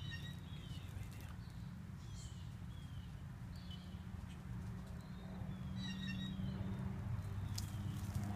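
Wild birds calling: short chirps that slide down in pitch, repeated every half second or so, with a denser cluster of notes about six seconds in, over a steady low hum. A few sharp clicks near the end.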